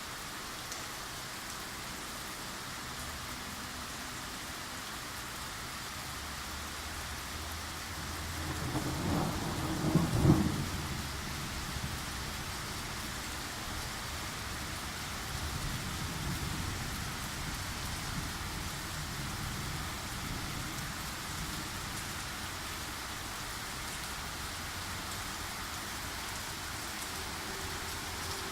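Thunderstorm: steady rain falling, with a roll of thunder that builds about a third of the way in, cracks loudest a moment later and rumbles away.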